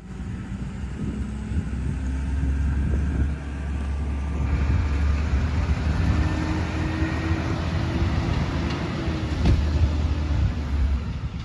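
Garbage truck engine running with a steady low rumble. About four seconds in it gets louder with a rush of broad noise, and a steady whine runs through the middle. It eases off near the end.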